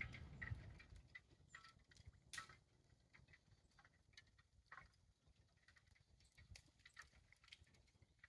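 Ice clinking and tinkling like wind chimes: faint, light clicks scattered at irregular intervals.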